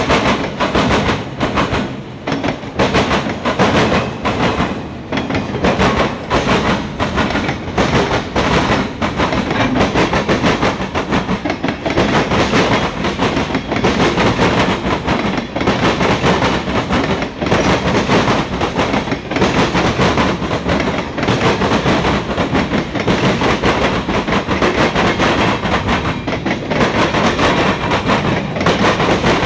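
A mixed freight train's cars rolling past: steel wheels clacking over rail joints again and again over a steady rumble.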